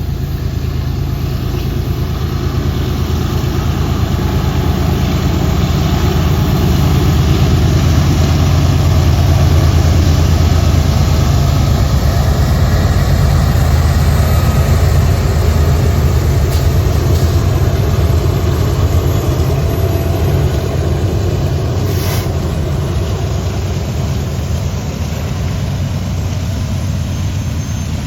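A heavy engine running with a deep, steady rumble that swells to its loudest in the middle and eases off toward the end.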